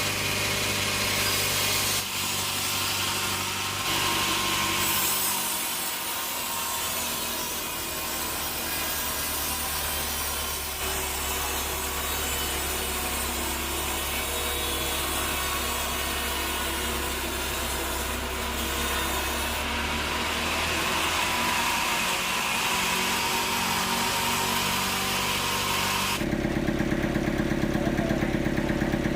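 Bandsaw sawmill blade cutting through a teak log: a continuous loud sawing hiss over the machine's steady running tones, shifting in pitch and level a few times. Near the end it gives way to an engine running with a fast, even pulse.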